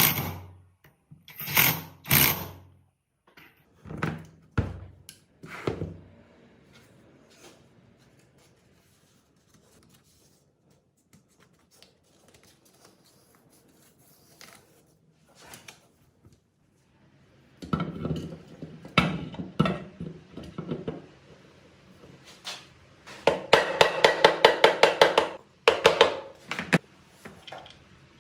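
Hand tools working on metal engine parts: a few scrapes and knocks, a quiet stretch, then a cluster of knocks and a quick run of rapid, evenly spaced taps near the end.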